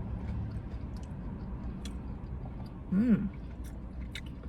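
A person chewing a bite of fried chicken nugget, with faint small mouth clicks, over a steady low hum. About three seconds in comes one short hummed "mm".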